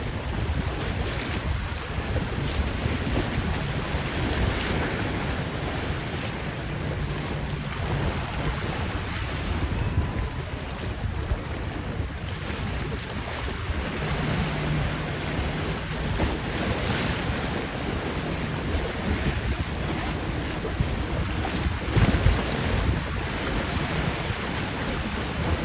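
Boat engines running past with a low steady hum, mixed with waves and wind buffeting the microphone; the engine hum grows louder twice, and there is a brief louder gust near the end.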